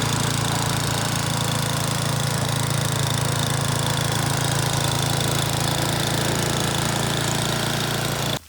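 A snowblower's small petrol engine running steadily at a constant speed. It cuts off abruptly near the end.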